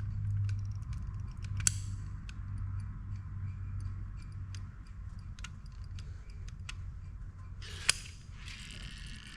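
Scattered light ticks and clicks of small parts and tools being handled during engine assembly, with two sharp clicks, one near the start and one near the end, over a steady low hum.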